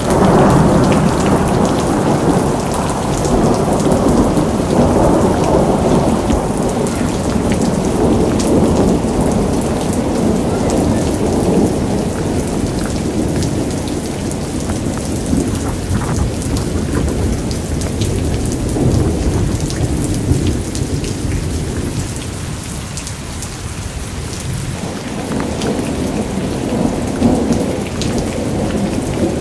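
Heavy rain falling steadily, with a low rumble of rolling thunder underneath that swells, eases a little past the middle, and builds again near the end.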